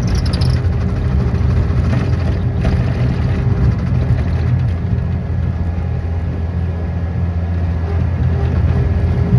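Engine running steadily under a low, even hum, with no clear rise or fall.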